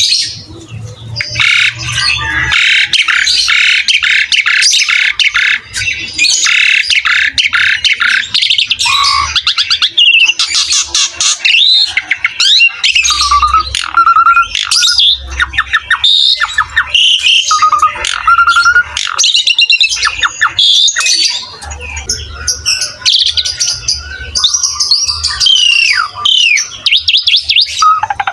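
Asian pied starling (jalak suren) singing without pause: rapid runs of harsh, chattering notes mixed with clearer whistled notes.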